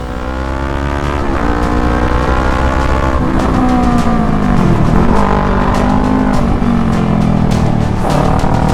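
Motorcycle engine pulling hard at high speed, its pitch climbing and then dropping at each of several gear changes.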